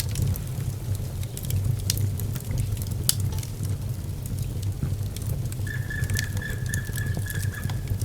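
Wood fire in a fireplace burning with a low rumble of flames and scattered sharp crackles and pops. A thin, steady high whistle joins in about two-thirds of the way through and lasts a couple of seconds.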